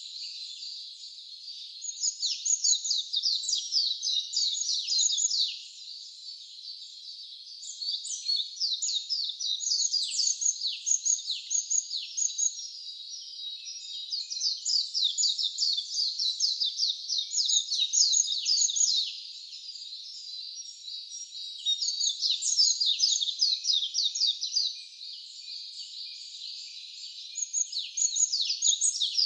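Wild songbirds singing in repeated bouts of rapid, high chirping notes. Each bout lasts several seconds, with short lulls between them.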